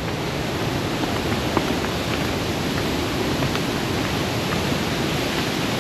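A steady, even rushing noise with a few faint ticks in it.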